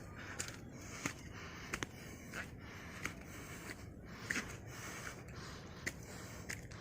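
Footsteps on a wet path, a step about every two-thirds of a second, over a faint steady hiss.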